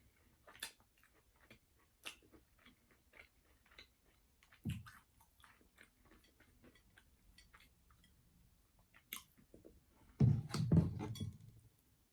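Close-mic chewing of fried food, made up of scattered wet mouth clicks and crunches, with a louder crunching burst lasting about a second near the end.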